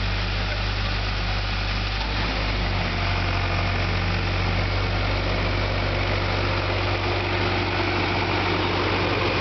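Skid steer loader engine running steadily, its low tone shifting slightly about three seconds in.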